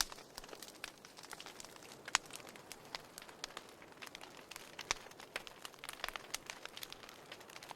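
Wood fire crackling in a fireplace: a steady scatter of irregular sharp snaps and pops over a faint hiss, with two louder snaps about two seconds and five seconds in.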